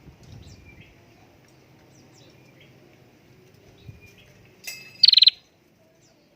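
A prenjak (prinia) gives a loud, fast rattling trill about five seconds in, lasting about half a second and falling slightly in pitch, after a short sharp note. Faint chirps of small birds come before it.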